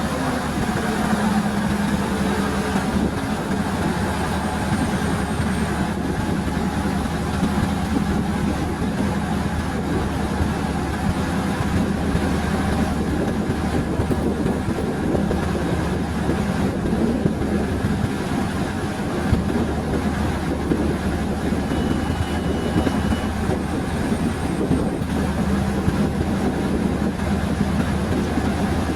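Passenger train running steadily, heard from on board: a continuous rumble of wheels on rail with a constant low engine hum.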